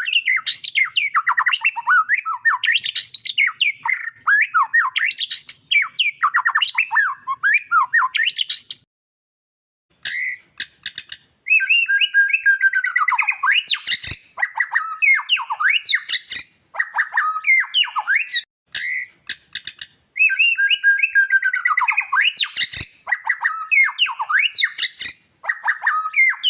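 White-rumped shama (murai batu) singing long runs of rapid, varied whistled phrases, with a short break about nine seconds in.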